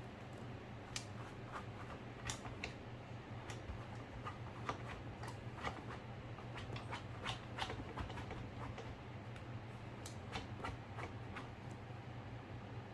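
A poodle playing with a torn ball: scattered, irregular light clicks and taps, a few a second, over a steady low hum.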